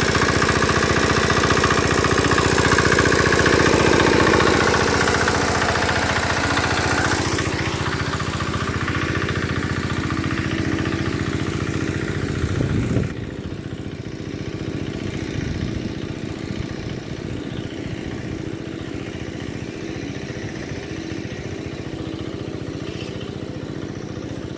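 Z175F single-cylinder air-cooled diesel engine running steadily with rapid, even firing pulses. Its level eases down after several seconds and drops suddenly about halfway through, while the engine keeps running.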